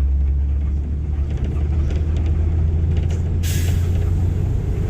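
Steady low engine rumble, with a short burst of hiss about three and a half seconds in.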